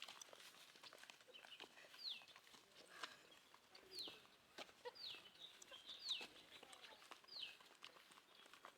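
A bird calling faintly: a short, high whistle that falls in pitch, repeated about every second or so.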